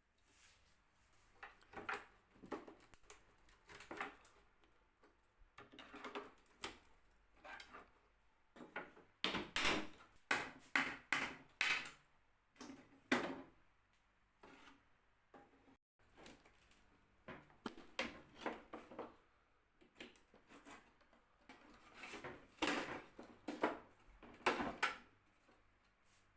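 Irregular wooden knocks, taps and short scrapes as a wooden cabinet's parts are handled and worked on, coming in clusters, busiest about ten seconds in and again near the end.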